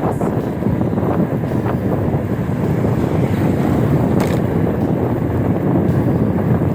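Steady wind rumble buffeting the microphone of a moving e-bike ride, with road noise underneath.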